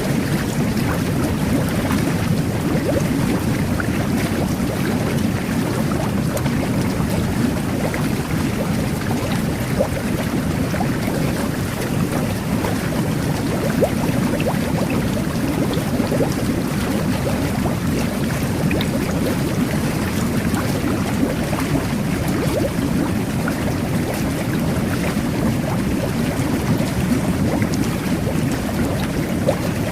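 Jet bath (jetted bubble bath) running: a steady, deep rush of churning water and air, flecked with many small bubble pops and crackles.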